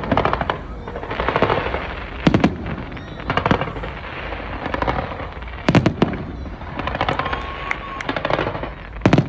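Aerial fireworks display: loud bangs of shells bursting every second or two, about five in all, with crackling between them.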